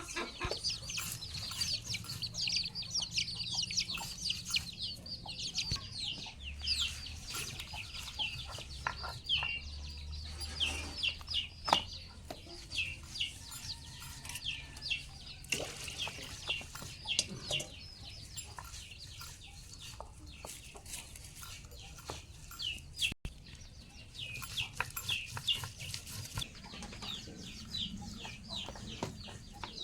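Chickens calling, mostly a steady stream of short, high peeping chirps, with a single sharp knock about twelve seconds in.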